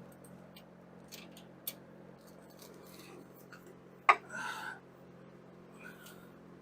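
Metal hand tools and sockets clinking and clicking as they are handled, with one sharper clink about four seconds in followed by a brief rattle.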